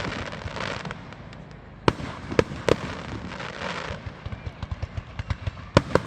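Fireworks display: sharp bangs of bursting shells with a crackling hiss between them, then a quickening run of small pops that grows louder near the end.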